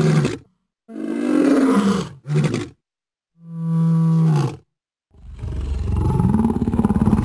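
A large animal roaring and growling in a series of loud calls, the last one long and rumbling.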